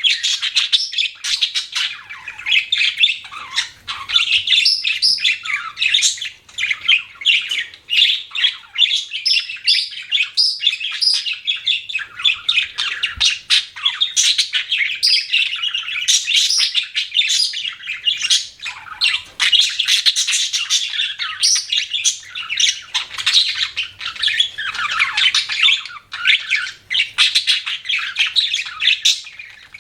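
Budgerigars chirping: a dense, unbroken stream of rapid, high-pitched chirps and chatter.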